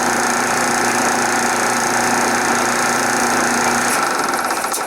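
1976 Westinghouse electric dryer running, its motor and drum turning with a steady mechanical noise, then switched off about four seconds in and winding down. The motor's bronze bushing is worn, which makes it start hard.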